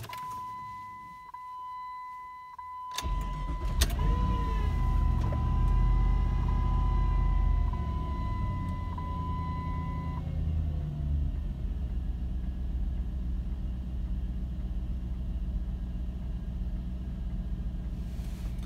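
A 2001 Jeep Grand Cherokee's 4.7-litre V8 starting cold on a newly replaced crankshaft sensor, camshaft sensor and idle air control valve. It begins against a steady high warning tone; the engine catches about three seconds in and flares up, runs at a fast idle, and settles to a lower steady idle about eight seconds in. The steady idle is described as pretty smooth.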